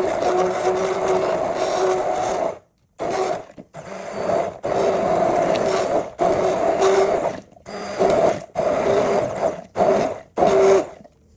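Electric blender motor running as it blends cooked onions and potatoes: one steady run of about two and a half seconds, then switched on and off in several short pulses.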